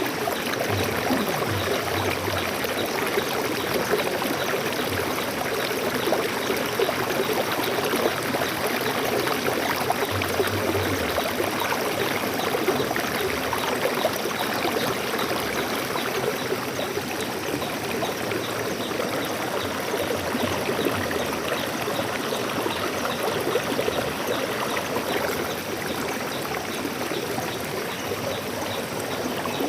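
Flowing water in a stream, a steady rushing and splashing with no pauses, easing off slightly near the end.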